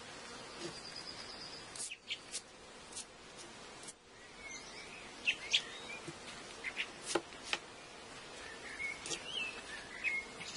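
Small birds chirping and trilling now and then over a steady outdoor hiss, with scattered sharp clicks and taps, the loudest a pair about five seconds in.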